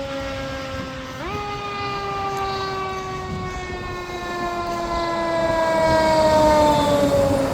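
Fire engine siren wailing: its pitch jumps up quickly about a second in, then slowly winds down, getting louder toward the end.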